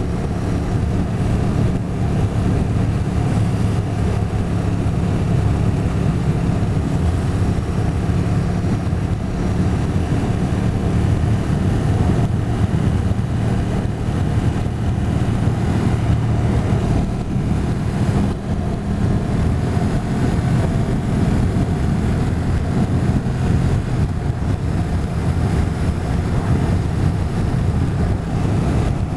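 Motorcycle engine running steadily at cruising speed, heard from on the bike, with rushing wind and road noise over it.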